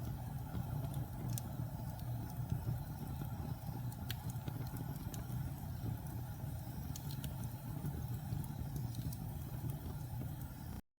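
Fire burning in a fireplace: a steady low rumble with scattered small crackles and pops. It stops abruptly just before the end.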